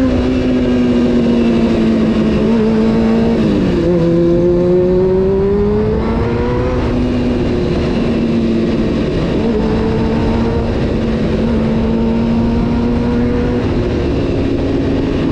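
Honda CBR600F4 inline-four engine running as the motorcycle is ridden. The revs drop sharply about three and a half seconds in, climb steadily for the next few seconds, then hold steady.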